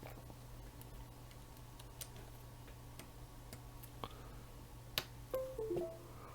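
Repaired USB thumb drive being plugged into a computer: a few faint clicks, then about five seconds in a brief computer chime of a few short tones that step in pitch, over a steady low hum.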